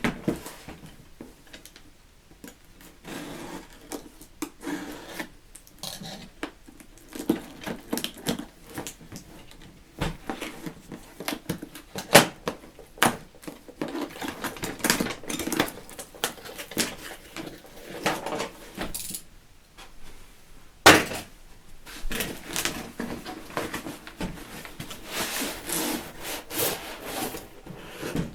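Stainless steel fire stand parts being handled and fitted together: irregular metal clinks, knocks and scraping, with one sharp knock about two-thirds of the way through.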